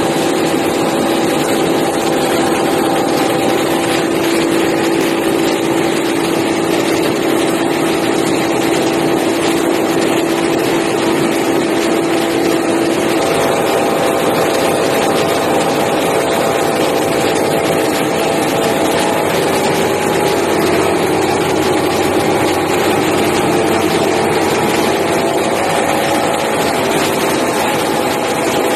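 Rice milling machine running steadily: a loud, even mechanical drone with a steady hum whose main pitch shifts about halfway through.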